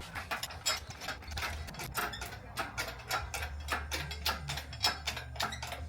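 Engine hoist and its lifting gear being worked during an engine drop: a quick, irregular run of light metallic clicks and ticks over a steady low hum.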